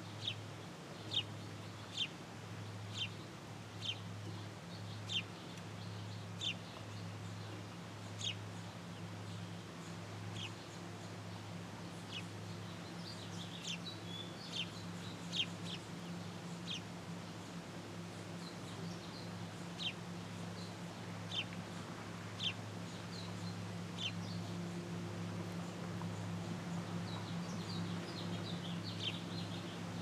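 Short, high bird chirps repeated about once a second, coming in quicker clusters about halfway through and again near the end, over a steady low hum.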